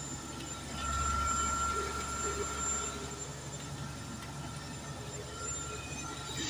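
Bulldozer running: a steady low diesel rumble under a constant high-pitched whine, with a slight swell in level about a second in.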